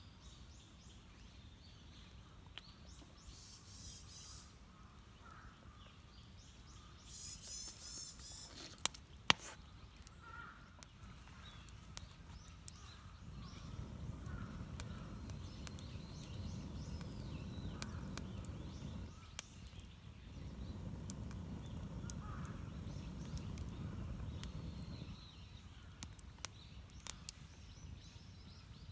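Birds chirping, with a few sharp pops or cracks, the loudest about nine seconds in, and two spells of low rushing noise in the second half.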